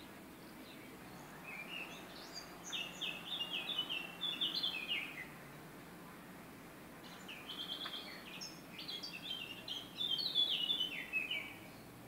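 A songbird singing two long phrases of quick, high notes that step downward in pitch, the first starting about a second and a half in and the second about seven seconds in, over a faint steady background hiss.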